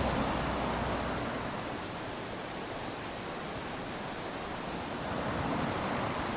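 Small waves washing up onto a sandy beach: a steady hiss of surf that swells as one wave comes in at the start, eases off, then swells again with the next about five seconds in.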